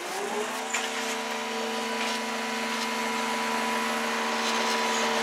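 Brayford level crossing barrier machine running as the barriers rise: a motor-driven hum that climbs in pitch as it spins up, then holds a steady tone while slowly getting louder.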